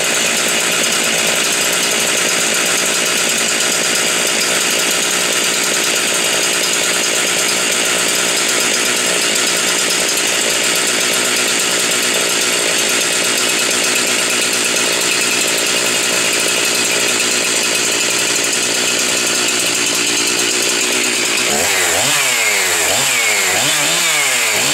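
Husqvarna 372 XP 71 cc two-stroke chainsaw running at high speed, steady for most of the time. Near the end it is revved up and down several times.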